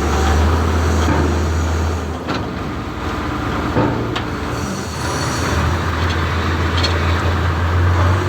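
An engine running in heavy rain, its low steady hum dropping away about two seconds in and coming back around five seconds, with a few knocks.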